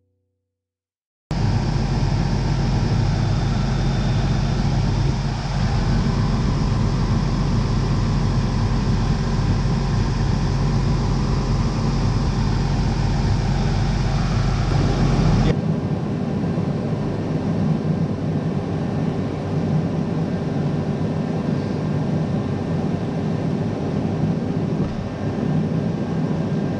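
Heavy farm machinery engine running steadily, starting about a second in. About halfway through it changes abruptly to a different, lower-pitched steady machine sound.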